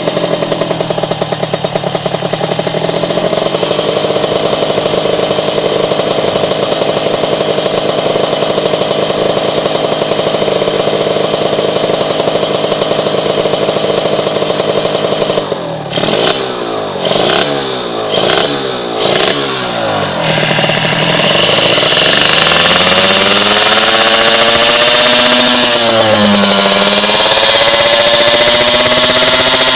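Kawasaki Ninja R's two-stroke single-cylinder engine through an aftermarket Creampie exhaust, running steadily while warming up. About halfway through it is blipped about five times in quick succession, then held at high revs that dip briefly and climb again near the end.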